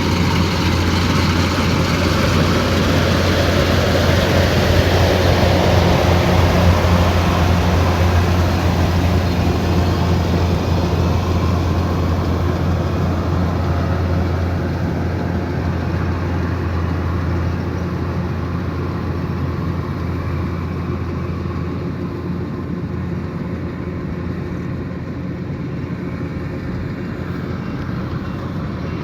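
Kubota DC108X combine harvester's diesel engine and threshing machinery running with a steady low hum. It grows louder over the first six seconds or so, then slowly fades.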